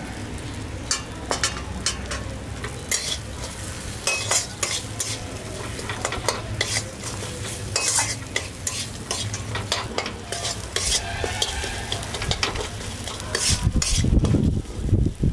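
Peanuts frying in hot oil with spices in a metal kadai, sizzling while a spatula stirs and scrapes against the pan in many quick, irregular strokes. Near the end a louder low rumble comes in.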